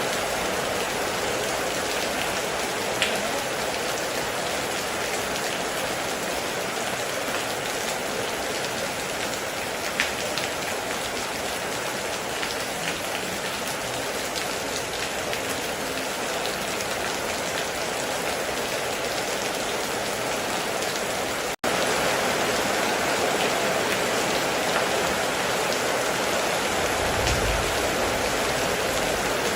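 Heavy rain falling steadily, with a few sharp drip ticks. The sound drops out for an instant about two-thirds of the way through, and there is a short low rumble near the end.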